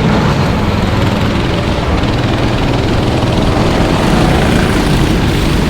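Racing kart engines running on the circuit: a steady, loud mechanical drone with no single pass-by standing out.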